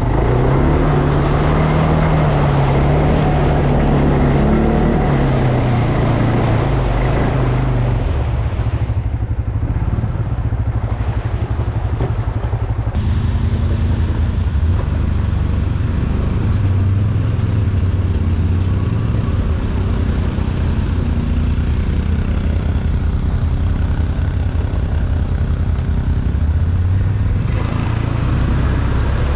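ATV engine running under way, its note rising and falling with the throttle over wind and terrain noise.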